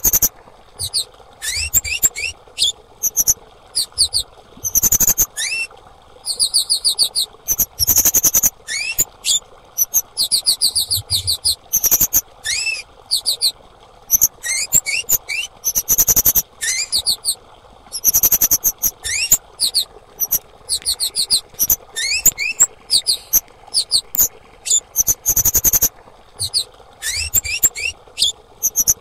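Female kemade calling in bursts of rapid, high, thin chirps and short trills, one burst after another with brief gaps, over a faint steady hiss.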